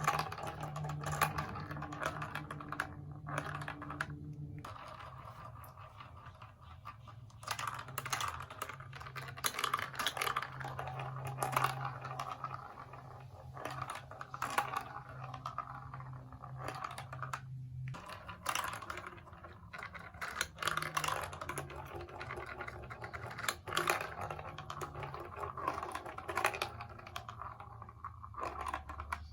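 Plastic marble-run building blocks and marbles clicking and clattering in quick, irregular runs, over a steady low hum.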